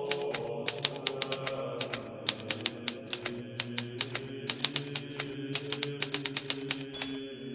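Hermes Baby portable typewriter typing, keys striking several times a second in quick irregular runs, over soft background music of held tones. A short high ring sounds near the end.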